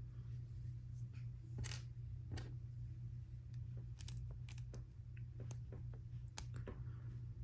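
Small plastic LEGO pieces clicking and tapping as they are handled and pressed together, a scattered series of sharp clicks with the loudest about six seconds in, over a steady low hum.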